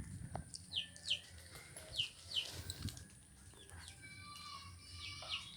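Small birds chirping: a handful of short chirps, each dropping in pitch, with a thinner twittering near the end.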